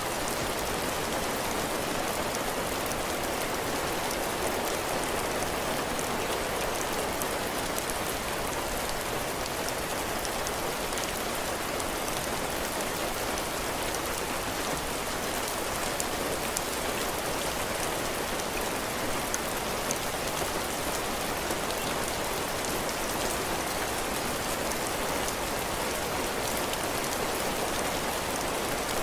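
Heavy rain falling steadily on a cabin porch roof and the ground around it, a dense even patter with faint scattered drip ticks.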